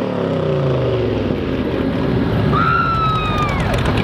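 Drag racing car engine at high revs, its pitch falling steadily as the car goes past, with a high whine gliding down partway through.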